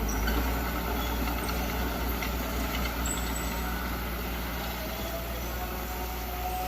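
Diesel engine of heavy earthmoving machinery running steadily, a constant deep drone.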